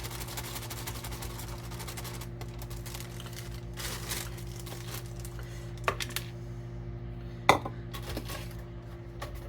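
Kitchenware being handled while getting ready to mix pancake batter: rustling for the first couple of seconds, then a few sharp clinks and knocks, the loudest about 7.5 seconds in, over a steady electrical hum.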